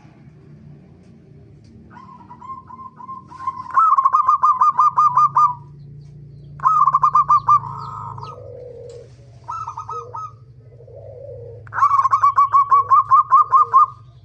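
Zebra dove (perkutut) cooing: repeated phrases of rapid staccato notes, the loudest and longest about a second in from a faint start and again near the end, with shorter phrases between.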